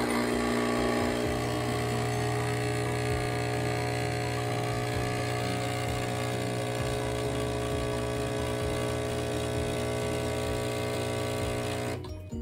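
Capsule espresso machine's pump running with a steady hum as it brews espresso into a cup; it cuts off near the end.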